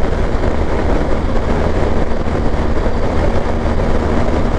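Motorcycle running at a steady cruise, its engine hum under heavy wind and road rumble.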